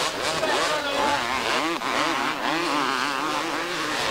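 Several 250cc two-stroke motocross motorcycles racing, their engine pitch rising and falling as the riders open and close the throttle.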